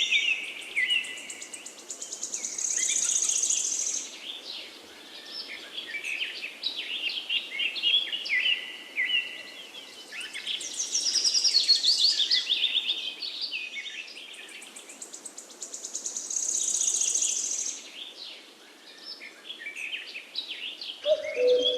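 A songbird singing long, varied phrases full of fast trills and chirps, rising and falling in loudness every few seconds.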